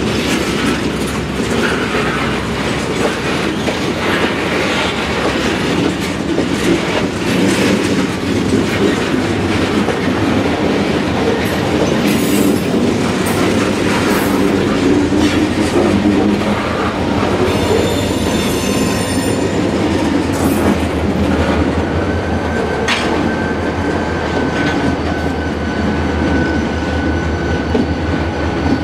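Freight cars rolling slowly while four boxcars are spotted during switching: wheels clacking and knocking over the track, with a high wheel squeal about two-thirds of the way in and a thin, steady squeal from about three-quarters of the way in.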